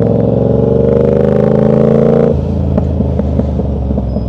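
Motorcycle engine accelerating, its pitch climbing steadily. A little over halfway through the pitch drops abruptly to a lower, uneven rumble.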